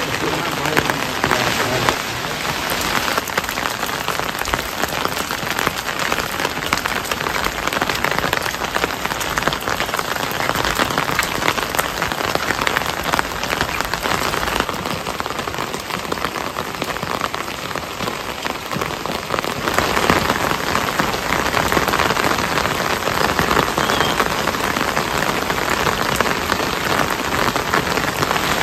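Steady rain falling, a dense hiss of many drops that grows a little louder about two-thirds of the way through.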